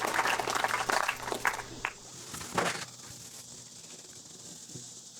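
Audience applause dying away over about two seconds, then a few last scattered claps before it goes quiet.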